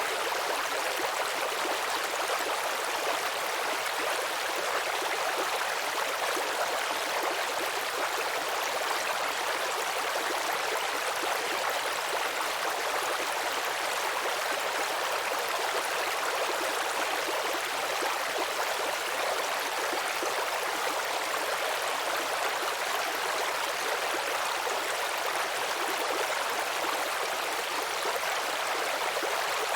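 Babbling brook: shallow stream water trickling and gurgling over stones in a steady, even rush, mostly high-pitched with little low rumble.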